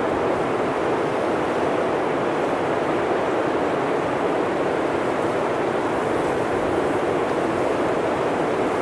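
Blizzard wind blowing steadily: an even, unbroken rush of noise, deepest and strongest in the low-middle range, with no gusts or lulls.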